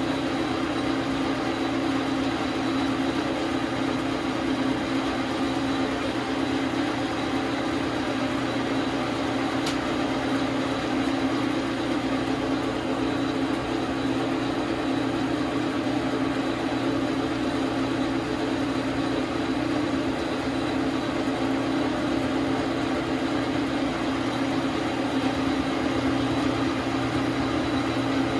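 Dar Sin 12 x 37 manual metal lathe running, a constant mechanical hum.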